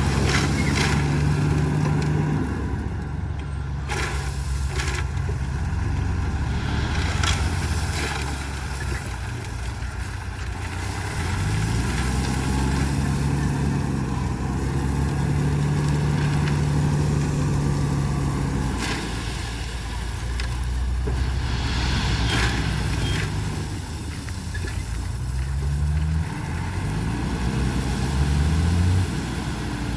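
Heavy diesel earthmoving machinery working gravel: a low engine note that rises and falls under load, rising in several steps near the end, with scattered clanks and knocks.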